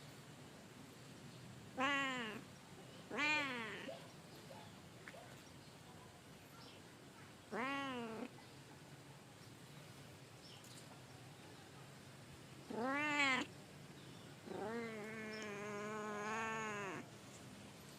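Domestic cat meowing five times: four short calls that rise and fall in pitch, then a longer, steadier meow of about two and a half seconds near the end.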